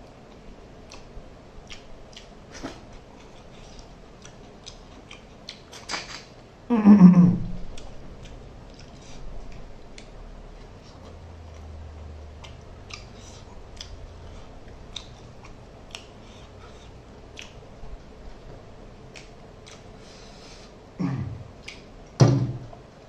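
Close-up chewing and wet mouth clicks of a person eating curry and rice by hand, with a loud, brief vocal sound falling in pitch about seven seconds in and another short one near the end.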